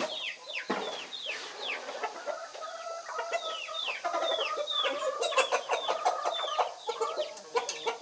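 Chickens clucking, with many quick high calls that fall in pitch, several a second.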